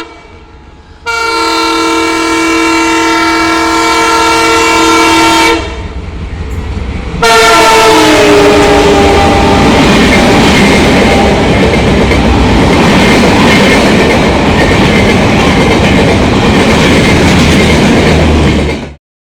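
Indian Railways locomotive horn sounding one long steady blast, then a second blast that drops in pitch as the train passes close by. The clatter and rumble of the passing train follow, and the sound cuts off suddenly near the end.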